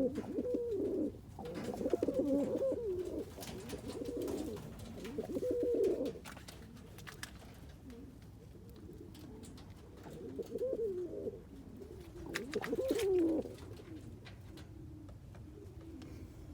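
Roller pigeon cockbirds cooing in repeated bouts through the first six seconds, then twice more after a short lull.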